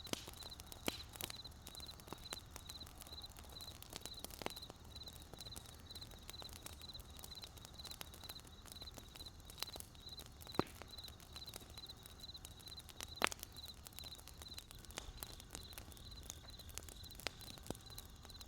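Crickets chirping in a steady, even pulse over a wood campfire crackling with scattered sharp pops, two of them louder a little past halfway.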